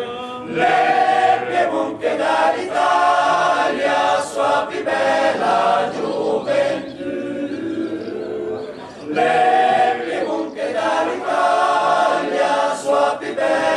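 Male choir singing a cappella in several voice parts, in long sustained phrases; one phrase dies away about eight seconds in and a louder one starts about a second later.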